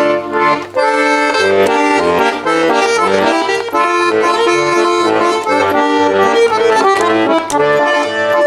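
Bayan (Russian button accordion) playing an instrumental introduction: a melody over sustained chords, with regular bass notes underneath.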